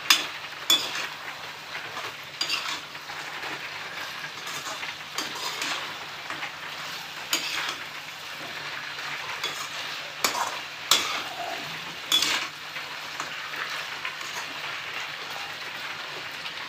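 Chicken feet and tomatoes frying in spiced oil in a steel kadai, a steady sizzle, while a perforated metal ladle stirs them, scraping and knocking against the pan every few seconds.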